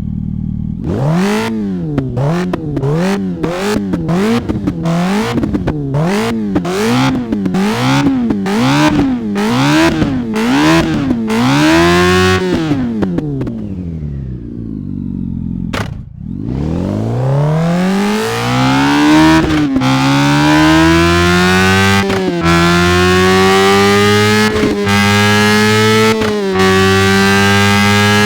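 An engine is blipped in quick revs about once a second, a dozen or so times. It then falls back to a low idle and pulls away, its pitch climbing through four quick gear changes to a steady high cruise.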